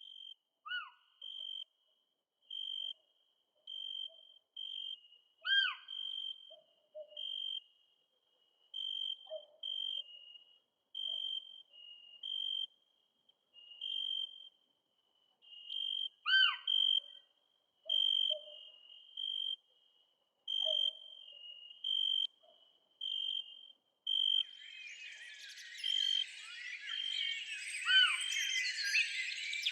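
Wild birds calling: a short high note repeated about once or twice a second, broken a few times by a sharply falling whistle. A dense chorus of many overlapping calls joins in the last few seconds.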